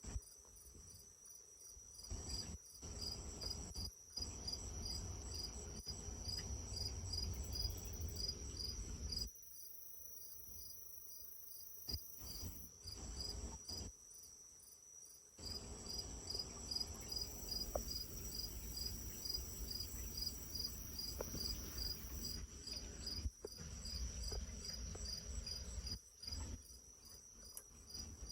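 Crickets chirping in a rapid, evenly repeated pulse over a steady high insect trill, broken by stretches of low rumbling noise.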